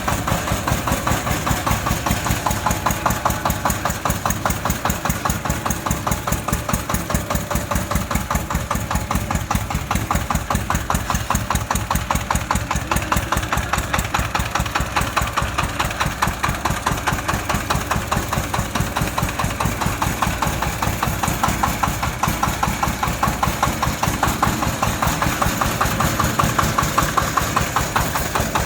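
Mini crawler tractor-tiller's engine running steadily with a fast, even pulsing beat.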